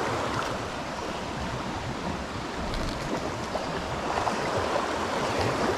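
Creek water rushing steadily: a swift current flowing over rocks and into a fallen tree.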